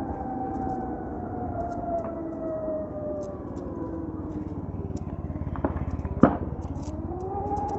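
Ather 450X electric scooter's motor whine under a rumble of road and wind noise. The whine falls slowly in pitch as the scooter slows, then rises again near the end as it picks up speed. A single sharp knock sounds about six seconds in.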